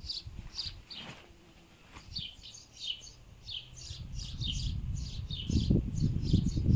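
Small birds chirping over and over in quick short notes, with a low rumbling noise that grows louder in the second half.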